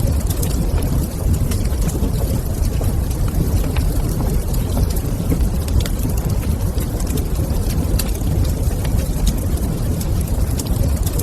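Wood fire crackling in a fireplace: scattered small sharp pops and snaps over a steady low rumble.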